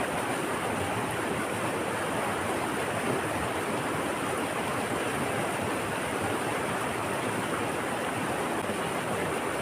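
Steady rushing of water, an even wash of noise with no distinct splashes or breaks.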